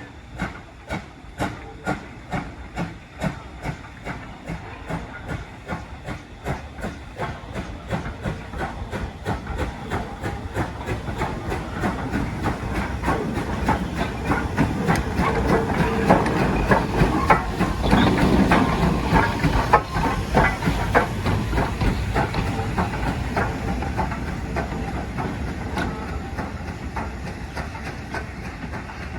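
Steam locomotive working, its exhaust chuffs at about two a second at first, then quickening and running together as it gets louder, with steam hiss; the sound peaks about two-thirds of the way through and then fades.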